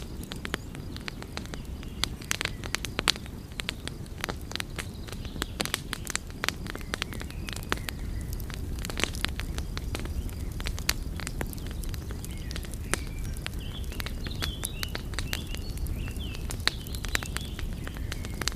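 Wood fire crackling steadily, with dense irregular pops and snaps over a low rumble of burning. A few faint high chirps come through in the second half.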